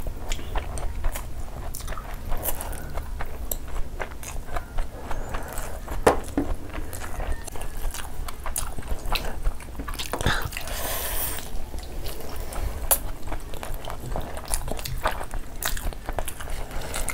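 Close-miked eating by hand: chewing and biting into mutton, rice and gravy, with many short clicks and crunches and a longer wet noisy stretch about two-thirds of the way in.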